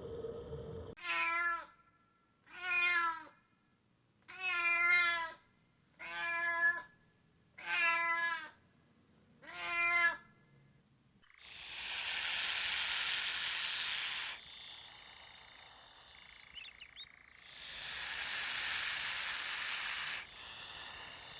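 A domestic cat meowing six times in a row, each meow about a second long with its pitch bending up and down. Then comes a long loud hissing, twice, each about three seconds long, with a quieter hiss between.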